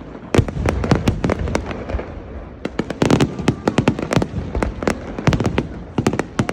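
Large aerial fireworks display: rapid volleys of sharp bangs and reports. A dense run fills the first two seconds, then comes a short lull, then an even faster barrage from a little under three seconds in.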